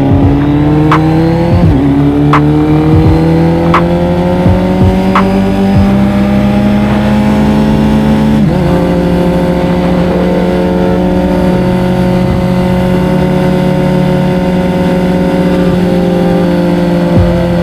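Kawasaki Z900's inline-four engine pulling under acceleration, its pitch climbing steadily, then dropping sharply with an upshift about halfway through and holding a steady note at cruising speed.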